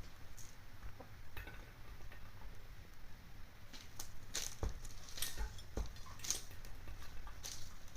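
Hens pecking feed from a dish: irregular sharp taps and clinks, a few at first, then quicker and louder from about halfway.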